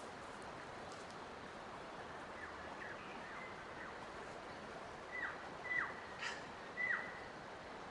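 A wild bird calling with short whistled notes that drop sharply in pitch, faint at first and then louder three times in the second half, with a brief click among them. Underneath runs a steady, even background hiss of outdoor ambience.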